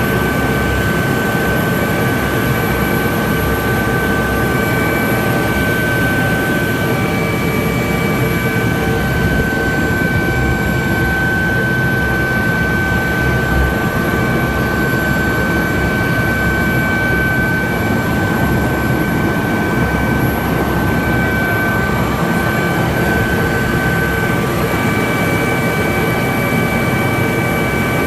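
Helicopter in flight: a loud, steady noise of rotor and turbine engine, with a constant high whine over it.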